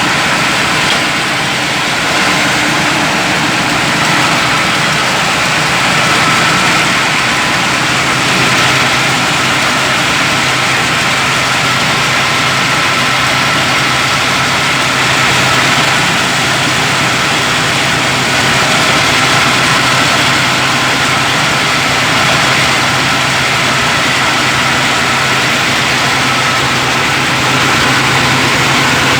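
Meatball grinding machine's motor running steadily, a loud continuous hum and rattle, after its loose bolts have been tightened.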